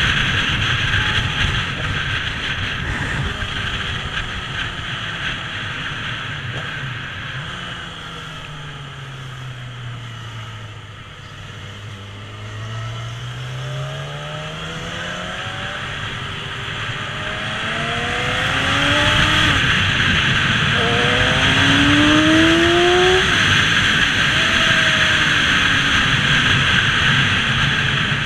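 Motorcycle ride: wind rushing over the microphone over the engine. Around the middle the engine note drops as the bike slows, then climbs again, and in the second half it rises in several short steps as the bike speeds up through the gears.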